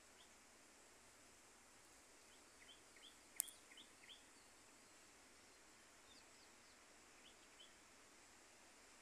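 Near silence with faint, scattered small-bird chirps in short clusters, and a single sharp click about three and a half seconds in.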